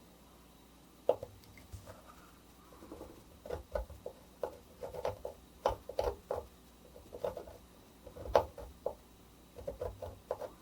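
Light, irregular taps and clicks of an etching needle working on a grounded copperplate, coming in small clusters.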